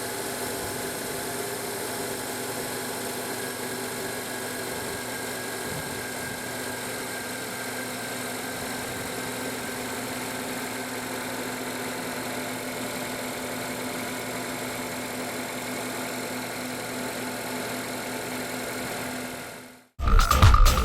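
Honda Accord engine idling steadily after its air filter change. Near the end it fades out and music starts.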